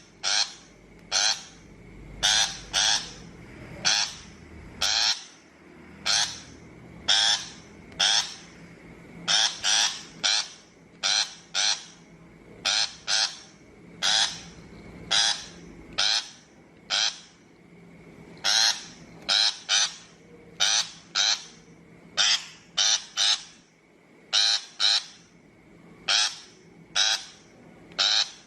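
Shrike giving harsh, grating calls over and over, about one and a half a second, often in quick pairs: the scolding call used as lure audio for trapping shrikes.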